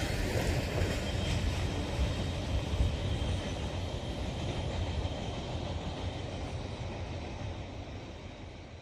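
Freight train cars rolling along the track with a steady rumble that slowly fades as the train moves away.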